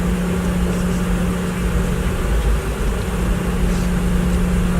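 Steady airliner cabin noise after landing: a low rumble of the jet engines and airflow, with a steady hum that drops out briefly about two seconds in.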